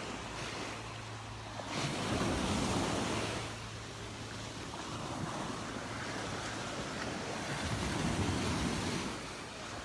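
Surf breaking on the beach as a steady wash, swelling louder twice: about two seconds in and again near the end. Wind noise on the microphone runs underneath.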